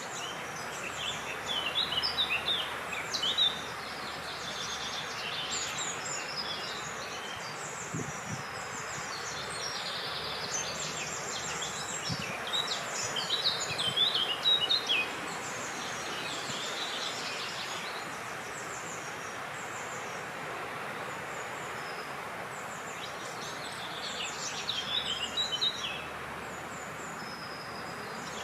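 Small songbirds singing and chirping in several bursts of quick, high notes over a steady rush of wind.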